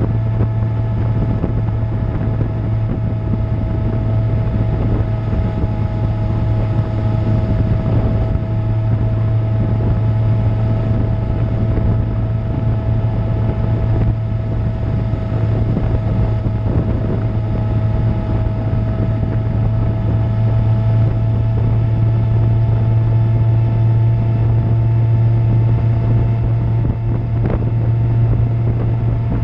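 Suzuki GSX-R750 inline-four with an Akrapovic exhaust running at a steady cruising speed, a loud, even drone that hardly changes in pitch, with wind rushing over the microphone.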